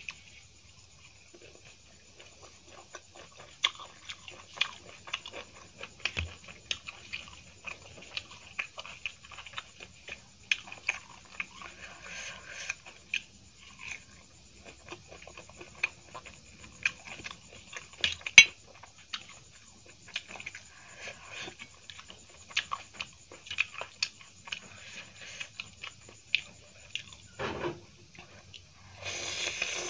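Close-miked chewing of a cauliflower pakoda: irregular wet mouth clicks and soft crunches, with now and then a fork clinking on a steel plate. Near the end there is a longer slurping sound as Maggi noodles are drawn in.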